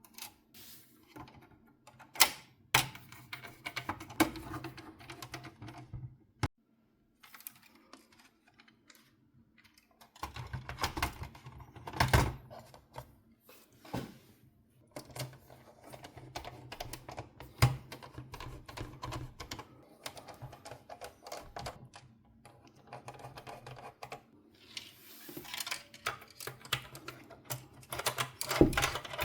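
Irregular clicks, taps and knocks of small plastic and metal parts and tools being handled while working on a PlayStation 4 console, with a few louder knocks among them.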